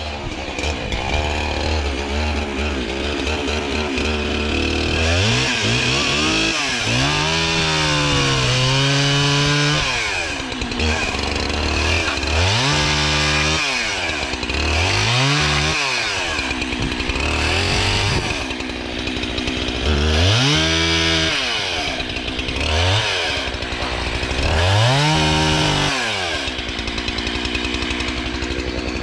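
Chainsaw cutting logs into firewood rounds, its engine revving up and falling back about seven times as the throttle is opened and released for each cut.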